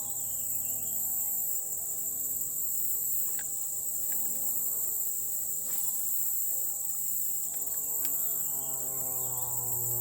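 Steady high-pitched insect chorus, with a distant engine droning underneath whose pitch slowly rises and falls. A few faint clicks.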